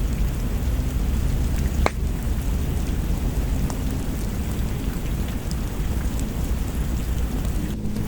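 Steady rain over a deep low rumble, with a few sharp crackling pops from a wood fire, the clearest about two seconds in.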